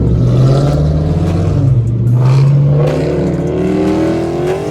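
Muscle car engine pulling under throttle. A low steady drone gives way, about three seconds in, to a pitch that rises steadily as the car accelerates.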